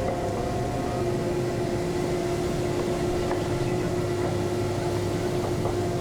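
Gornergrat Railway electric cog train running, heard from inside the carriage: a steady rumble with a steady whine whose pitch drops lower about a second in.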